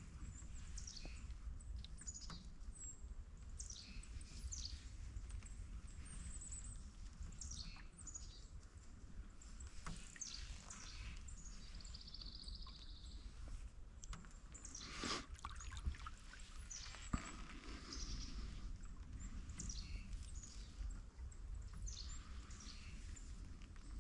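Birds calling repeatedly with short, downward-sweeping chirps, over a low steady rumble. A single sharp knock sounds about two-thirds of the way through.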